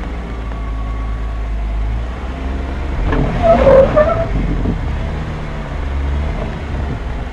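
Jeep engine running at low revs while crawling, steady throughout, with a louder, rougher burst of engine and tyre noise about three seconds in that lasts a second or so.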